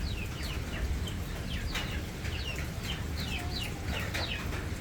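Several young poultry chicks peeping, a quick run of short, high, downward-sliding peeps, several a second and sometimes overlapping, over a steady low rumble.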